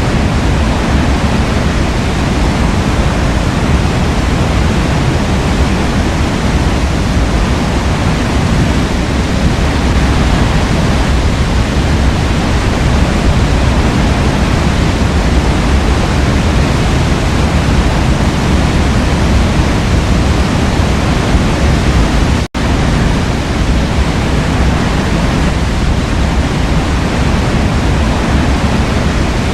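Forest waterfall rushing steadily, a dense full-range rush of falling water heaviest in the low end. It cuts out for a split second about three-quarters of the way through.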